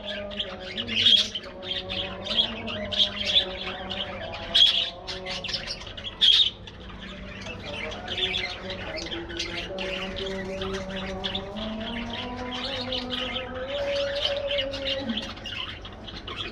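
A flock of budgerigars chattering and squawking, with several sharp, loud squawks in the first six seconds and steadier chirping chatter after that.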